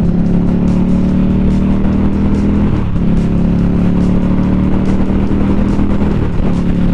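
Indian Scout's V-twin engine running steadily at highway cruising speed, heard from the rider's seat with road and wind noise. The engine note briefly dips about three seconds in and again near the end, then picks back up.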